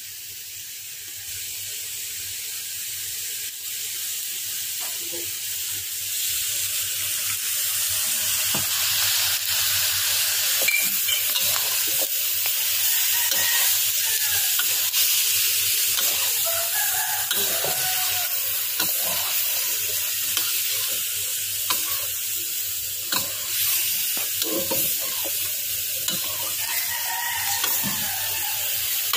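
Pieces of chicken stomach frying in a metal wok, sizzling steadily while a metal ladle stirs them and scrapes the pan over and over. The sizzle grows louder over the first several seconds.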